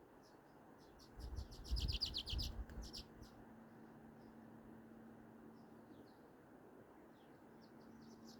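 Songbirds chirping at dawn, with a quick run of rapid repeated notes about two seconds in and scattered single chirps after it. A steady rush of river water runs underneath, and low rumbling bumps come during the loudest bird notes.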